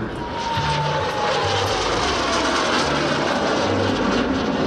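Aero L-29 Delfin's single turbojet flying past in a display: a steady jet rush with a whine that falls in pitch over the first two or three seconds.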